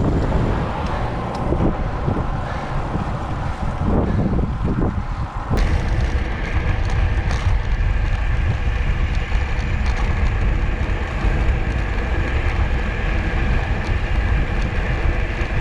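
Wind rumbling on the microphone with scattered knocks. About five and a half seconds in it changes abruptly to a steady engine drone with held tones.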